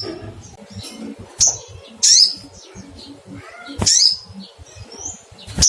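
Olive-backed sunbird giving its sharp, high 'cuit cuit' calls, each sliding quickly down in pitch. There are four loud calls and some fainter chirps between them. This is the call of a sunbird looking for a rival.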